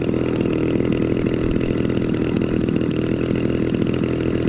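Radio-control model airplane engine running steadily at an even pitch.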